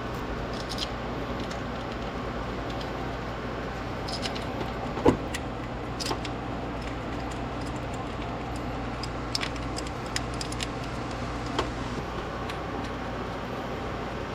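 Scattered light metallic clicks and clinks of hand tools and parts being handled during engine-bay work, with one sharper knock about five seconds in, over a steady low hum.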